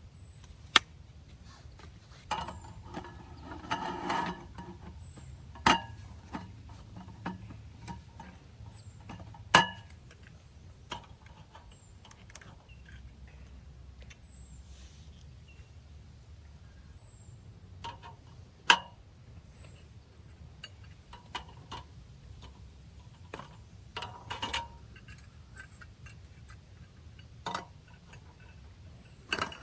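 Scattered sharp knocks and clinks, with a burst of clattering about two to four seconds in, over a low steady rumble.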